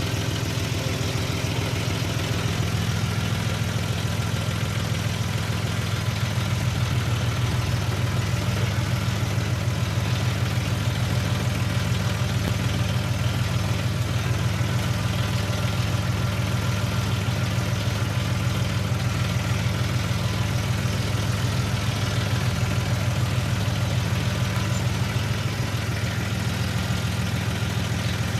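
A John Deere farm tractor's diesel engine running steadily with an even low throb, picking up slightly about six seconds in.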